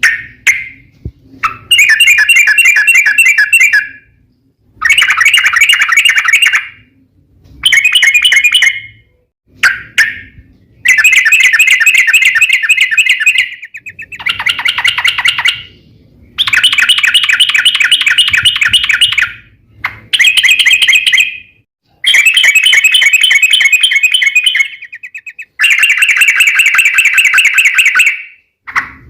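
Yellow-vented bulbul (trucuk) singing in loud bursts of fast, rattling chatter, about ten phrases of one to three seconds each with short pauses between, all of them long rapid trills.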